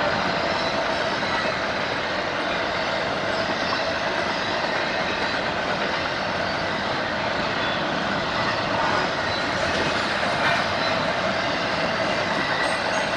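Train rolling past through a road crossing: a steady noise of wheels running on the rails, with some clickety-clack.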